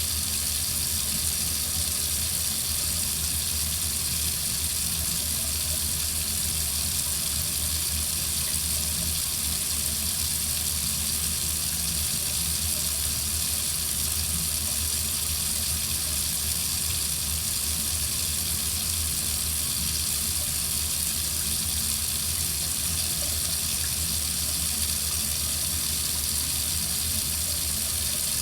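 Water faucet running steadily, a constant even rush of water with no change in flow.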